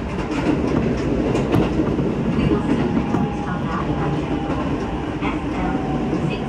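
Interior of a Shin-Keisei Line local train running at speed: steady wheel and rail noise heard from inside the car, with occasional clicks. A faint steady tone comes in during the second half.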